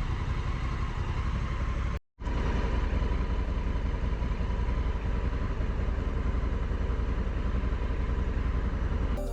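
Honda Africa Twin motorcycle engine running steadily, broken by a brief dropout to silence about two seconds in.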